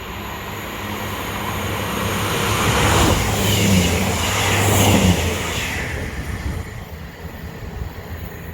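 Train passing through: a steady low hum and the rumble of wheels on rail, building to its loudest about three to five seconds in, then fading away.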